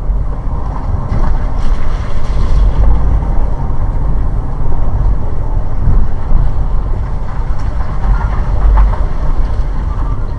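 Steady, loud low rumble of a moving car's road and engine noise picked up by a dashcam, with wind buffeting the microphone.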